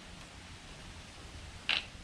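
A single short creak about three-quarters of the way through, over a faint low hum.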